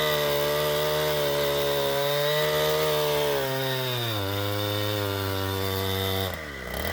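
Two-stroke chainsaw running at high revs. Its pitch sags a little past halfway as it loads down, and about six seconds in the throttle is released and the note falls away.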